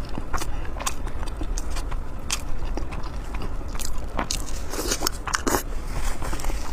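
Close-miked eating: biting and chewing food with irregular sharp, crackly mouth clicks, over a steady low hum.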